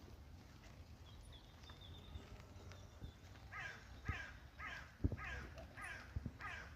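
African painted dog (African wild dog) giving a run of short, high chirping calls, about two a second, starting about halfway in.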